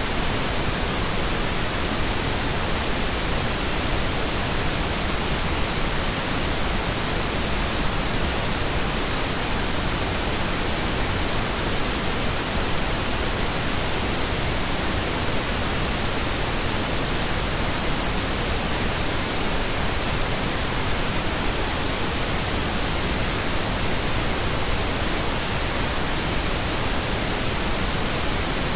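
Steady pink noise: an even, unbroken hiss spread across all pitches, with no changes.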